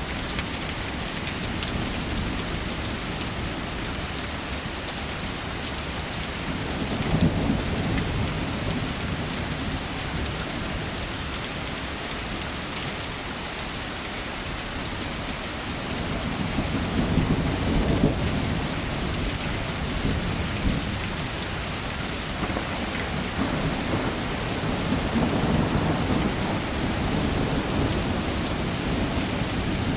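Steady heavy rain, with low thunder rumbles swelling up three times.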